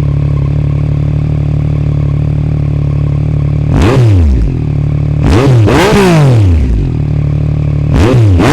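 Yamaha MT-09's three-cylinder engine breathing through an Akrapovic carbon fibre exhaust, idling steadily just after a start, then blipped several times, the pitch sweeping up and falling back each time: once about four seconds in, twice in quick succession around five to six seconds, and again near the end.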